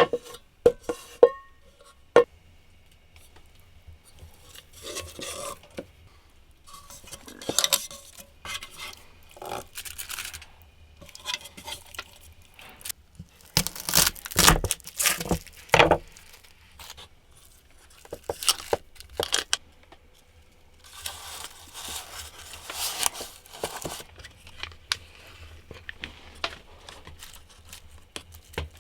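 Irregular handling sounds: a few sharp clinks with brief ringing in the first couple of seconds, then scattered bouts of rustling, tearing and scraping, loudest about halfway through.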